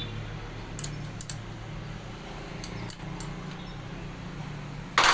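Light metallic clinks of a spanner and bolts against a car starter motor's housing during reassembly, with a louder clunk of metal near the end, over a steady low hum.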